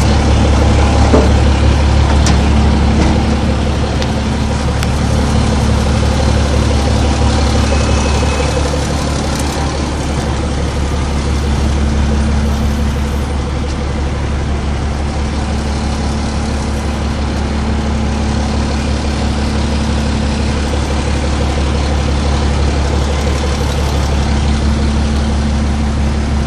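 Diesel engine of a Nippon Sharyo DH508 pile driver idling steadily, a deep even engine hum.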